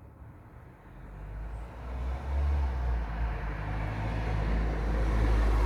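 Thunder rolling: a low rumble that builds over several seconds and is loudest near the end.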